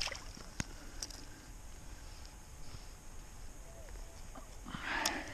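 A few faint clicks, then a short splash of water about five seconds in, as a hooked pike is worked free with pliers at the surface.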